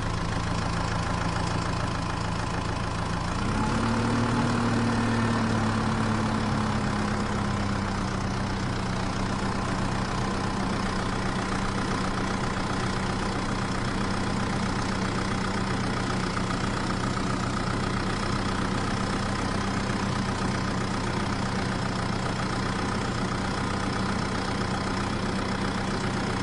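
A motor running steadily with an idling, engine-like drone. Its pitch rises briefly about three and a half seconds in, then settles back.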